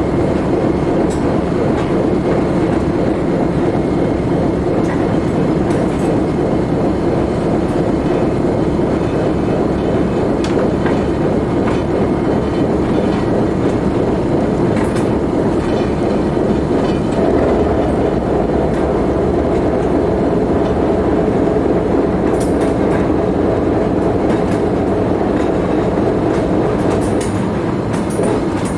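Alco S4 switcher locomotive's turbocharged six-cylinder diesel running steadily, heard from the cab, with wheels clattering over the track. The engine note changes about halfway through.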